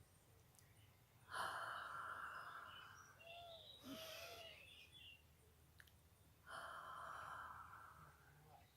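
A woman's slow, deep breaths: two long breaths of about two seconds each, one about a second in and one near the end. A bird chirps faintly between them.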